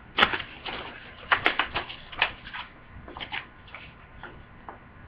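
Plastic DVD case being handled and opened: a run of irregular clicks and rattles, busiest in the first two seconds and thinning out toward the end.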